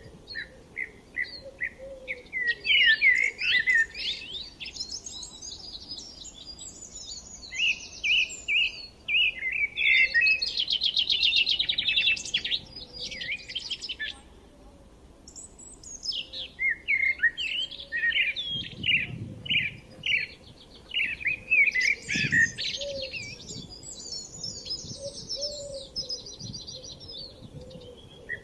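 Songbirds singing: quick runs of high chirps and rapid trilled phrases that come in bursts, overlapping at times, with short lulls in between.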